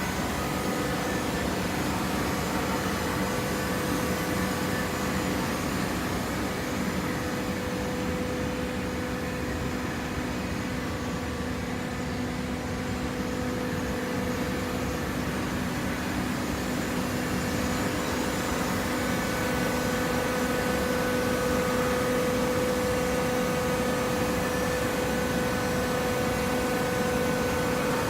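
Coconut fiber baler machine running: a steady mechanical drone with a constant hum, growing slightly louder about two-thirds of the way through.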